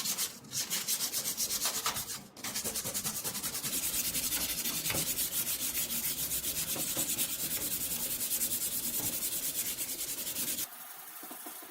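Sanding of high-build white primer on the scooter's steel body: a steady, rasping hiss in rapid, even strokes. It breaks briefly twice near the start and stops abruptly near the end.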